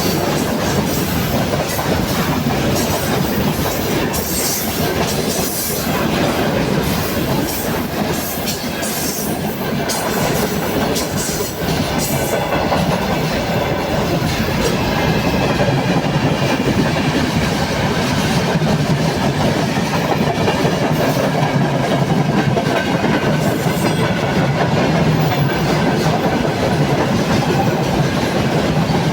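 Freight train rolling past at close range with a steady rumble, its wheels clacking rhythmically over the rail joints. Later on, a faint wavering squeal from the wheels rises above the noise.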